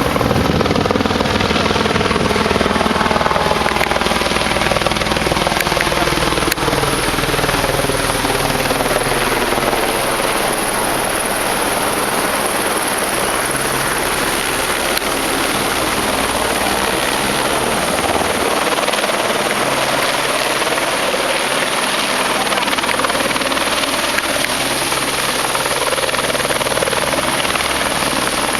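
Firefighting helicopter's rotor and engine running loud and steady. Its pitch drops over the first several seconds and climbs again near the end.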